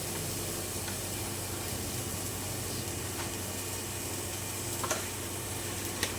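Onion and garlic sizzling steadily in hot cooking oil in a pan, with a few light clicks now and then.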